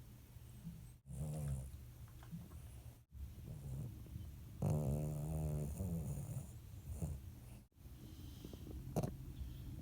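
Shih Tzu snoring in its sleep: a series of separate low snores, the longest and loudest about halfway through lasting around two seconds. The audio drops out completely for a moment three times.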